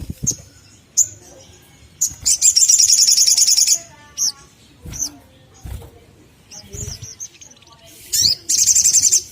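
Sogon, a small sunbird-family bird, calling: single high chirps, then a long, fast, high chittering trill from about two seconds in to nearly four, and another trill starting near the end. A few soft, dull low bumps fall between the calls.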